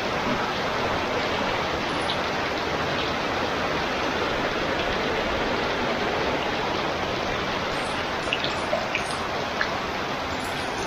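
Heavy rain falling steadily, an even downpour hiss with no let-up, and a few sharper drops ticking near the end.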